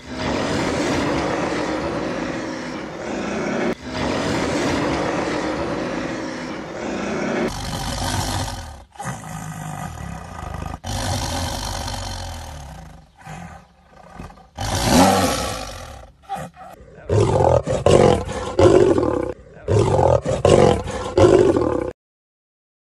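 Big-animal roars, one clip after another: a long, continuous growling roar, then a tiger snarling and roaring with short breaks, then a quick series of short, loud roars that cuts off abruptly near the end.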